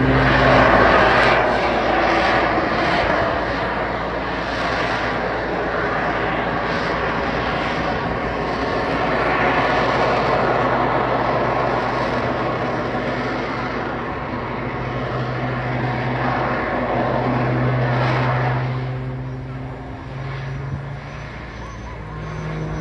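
Aerobatic display plane's engine running through a sequence of manoeuvres, with a steady hum whose pitch shifts up and down as the plane climbs, turns and passes. It is mixed with a wide rushing noise and eases somewhat near the end.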